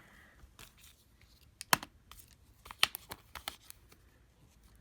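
Parts of an opened MacBook Pro being handled: scattered light clicks and taps, two of them sharper, about a second apart near the middle.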